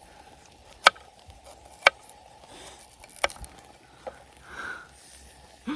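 Three sharp, short knocks, about a second or so apart, over a faint steady background.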